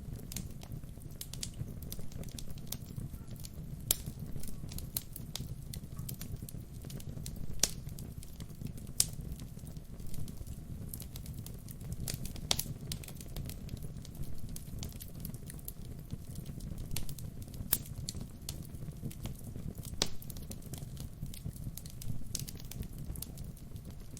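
Wood fire burning: a steady low rumble of the flames under frequent small crackles and pops, with a handful of louder, sharper pops scattered through.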